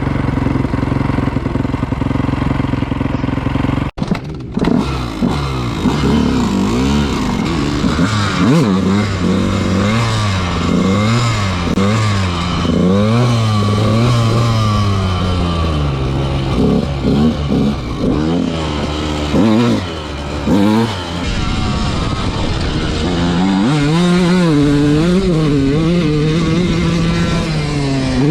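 Dirt bike engines revving hard and dropping off again and again, the pitch rising and falling every second or two. A steady engine drone in the first few seconds cuts off abruptly about four seconds in.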